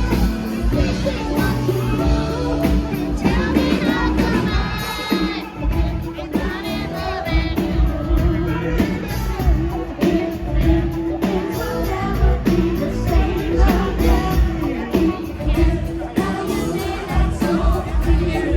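Live rock band playing with sung vocals and a steady bass beat, heard through loud amplified sound from the audience.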